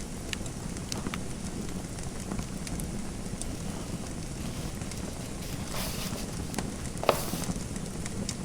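Fireplace fire crackling: a steady low rumble of burning with scattered sharp pops. Near the end come two brief scratchy bursts, the second the loudest.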